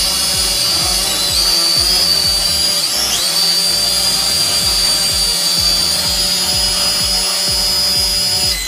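SHRC SH5HD toy quadcopter's motors spinning with a steady high-pitched whine, dipping briefly twice as the throttle changes, then cutting off near the end.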